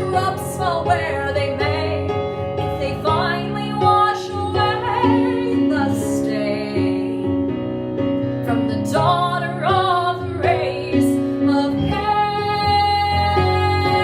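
A woman singing a musical-theatre ballad with held, wavering notes over instrumental accompaniment.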